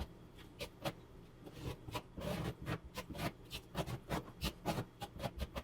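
A trowel spreading tile adhesive on the wall: irregular scraping strokes with small clicks.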